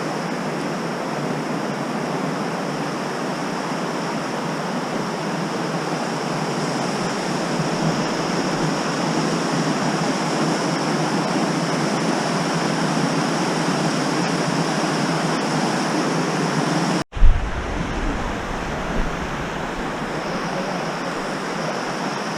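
Steady rush of the Virgin River running over boulders and small waterfalls. About 17 seconds in, the sound briefly cuts out and there is a single thump, then the rushing goes on with more low rumble.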